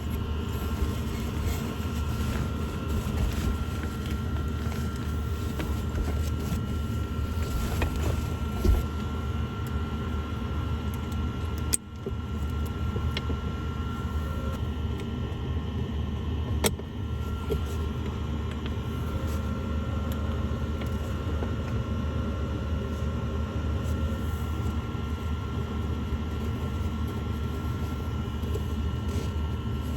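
A steady low mechanical rumble with a faint constant whine, unchanging throughout, of the kind a vehicle or a running motor makes, with a brief dip about twelve seconds in.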